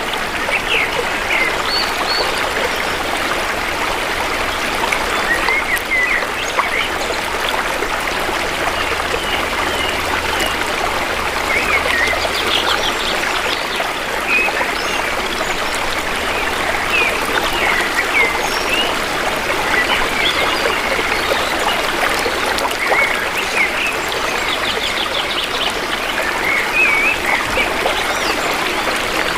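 Shallow river flowing steadily, with forest birds chirping now and then over it: short whistled notes scattered throughout and a few fast trills.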